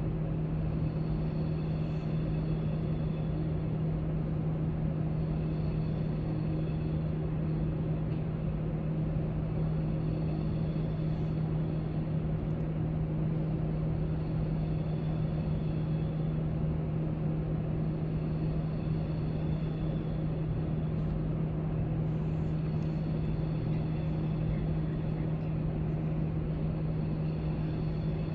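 Steady library background noise: a constant low hum with an even hiss over it and a few faint small clicks.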